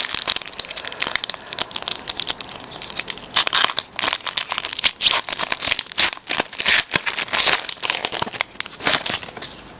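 Hockey card pack wrapper being torn open and crinkled: a dense run of sharp crackles, busiest in the middle.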